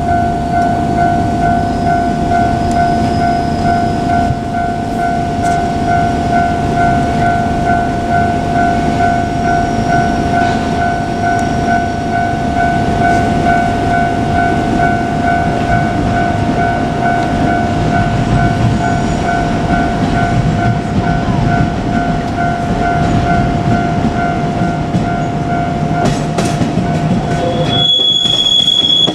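An electric train running past at a railway level crossing, its wheels on the rails giving a steady rumble, while the crossing's warning bell rings on in a rapidly repeating electronic ding. Both stop abruptly near the end.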